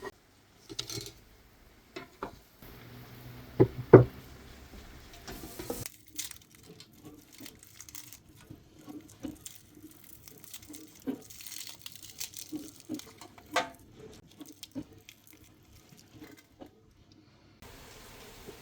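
Cooking prep handling sounds: parchment paper crinkling and tearing, with scattered light taps and knocks. Two louder knocks come about four seconds in.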